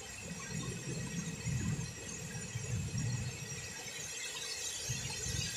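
Heavy rain falling as a steady hiss, with an uneven low rumble of wind buffeting the microphone in gusts.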